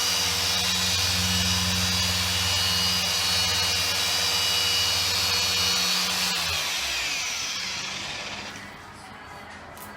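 Car polishing machine running steadily on the paint during an extra heavy cut polishing pass, then switched off about six seconds in, its pitch falling as it winds down to a stop.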